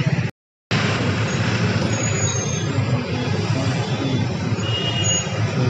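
Busy street traffic: a steady wash of vehicle engines and tyres, broken by a moment of dead silence just after the start where the recording cuts.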